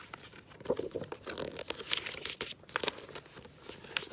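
Paper rustling and crinkling with a few sharp clicks, the sound of a picture book's pages being handled and turned.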